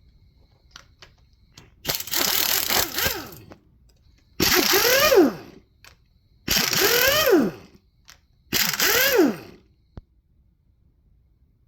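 Air tool run in four bursts of about a second each, the motor's pitch rising then falling in each burst over a loud hiss, as it spins fasteners off an LS 5.3 V8 being torn down.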